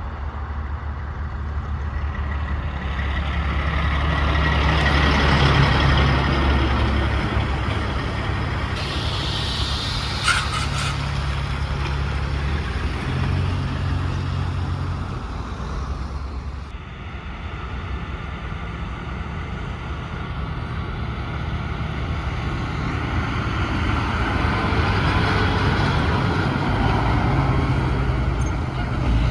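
Heavy trucks driving past, their diesel engines rising as each one approaches and then fading, with a short air hiss about ten seconds in.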